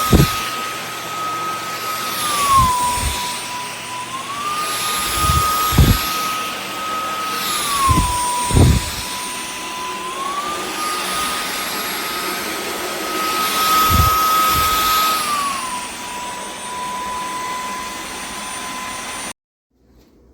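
Dyson V12 Detect Slim cordless stick vacuum running with a high, steady motor whine that steps up and back down in pitch every few seconds, with a few low knocks. It cuts off abruptly near the end.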